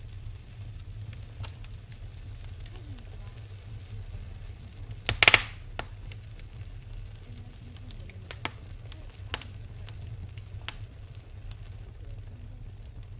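Fireplace fire crackling: scattered sharp pops over a low steady rumble, with one loud burst of crackling about five seconds in.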